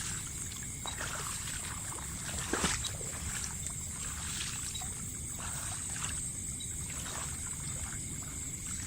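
Water sloshing and splashing in irregular strokes, with one sharper splash a little under three seconds in, over a steady high-pitched drone of insects.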